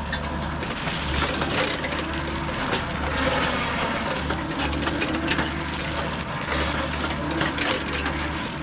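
Rut hydraulic brush cutter head on a mini excavator chewing through brush and grass, a dense crackling and snapping of vegetation being shredded over the low drone of the excavator's engine.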